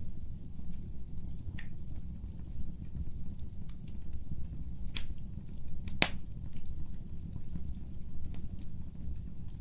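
Fireplace fire crackling: scattered sharp pops and clicks, two louder pops about halfway through, over a low steady rumble of flame.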